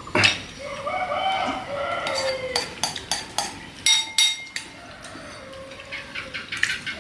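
A rooster crows in one drawn-out call, followed by a run of sharp clinks of a spoon against ceramic bowls, with more clinks near the end.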